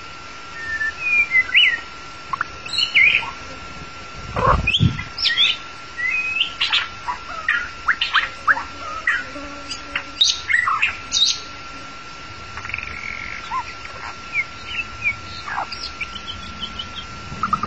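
White-rumped shama singing: a run of short, varied whistled notes and quick pitch slides. A thin steady whine sounds underneath throughout, and two dull knocks come about four and a half seconds in.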